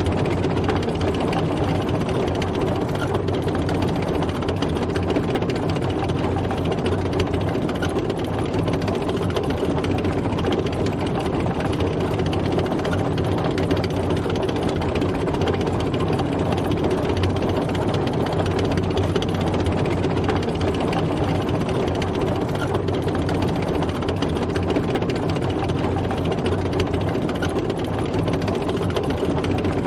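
Tank driving, its heavy engine running steadily with clatter from the tracks.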